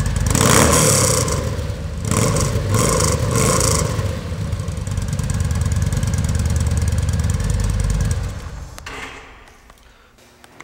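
2009 Yamaha V Star 950's air-cooled V-twin running through an exhaust with a 1.5-inch hole drilled into it to make it louder. It is revved twice in the first four seconds, idles, then shuts off about eight seconds in.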